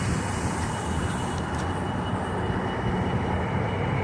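Steady rumble of vehicle noise, with a thin, high, steady whine that stops near the end.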